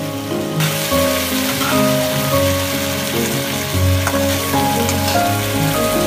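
Tofu and scallions sizzling in a sauce-coated wok as they are stir-fried with a spatula; the sizzle comes up suddenly about half a second in. Soft background music with held notes plays underneath.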